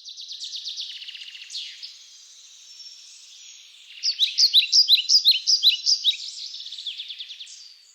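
Several birds singing at once, a dense stream of rapid high chirps and trills, with a louder run of sharp repeated chirps from about four to six and a half seconds in.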